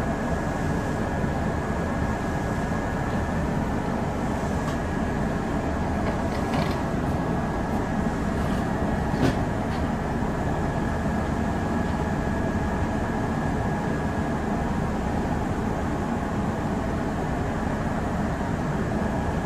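Kintetsu 8000 series electric train heard from the cab: a steady hum and rumble with a thin, steady high whine, and a few faint clicks.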